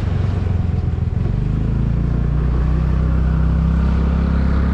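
Motorcycle engine running under way, its note shifting a little about a second in and then holding steady, with a rush of wind noise over it.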